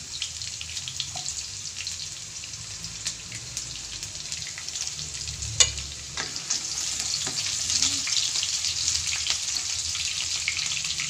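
Chopped onion sizzling and crackling in hot oil in a wok, the frying growing louder from about halfway through. A single sharp click stands out about five and a half seconds in.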